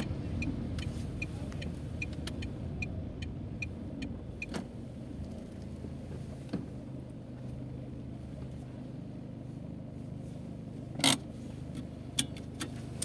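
A car engine running steadily, heard as a low hum, with an even ticking of about two or three a second for the first few seconds. A loud click comes about eleven seconds in, and a few smaller clicks follow near the end.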